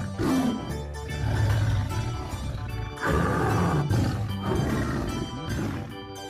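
A big cat roaring in two long, deep roars of about three seconds each, the second starting about three seconds in, with background music under them.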